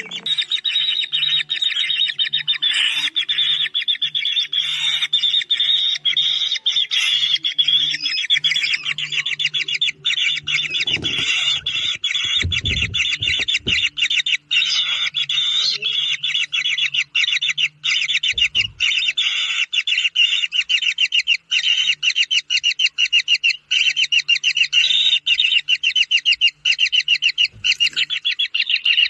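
Kingfisher chick calling: high notes repeated rapidly and without pause. A few low bumps come about eleven to fourteen seconds in.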